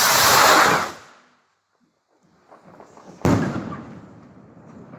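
A firework goes off with a loud rushing hiss lasting about a second, then a single sharp, loud bang a little over three seconds in that trails off in an echo.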